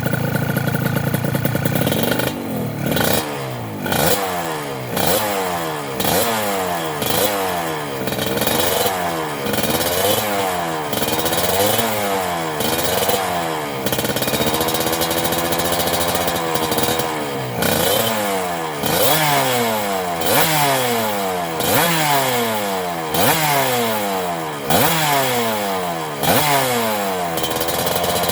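Suzuki TS 125 two-stroke single-cylinder motorcycle engine, fitted with a full-stainless aftermarket exhaust, revved in repeated throttle blips. Each blip rises sharply in pitch and falls back, about once a second, with one longer held rev about halfway through.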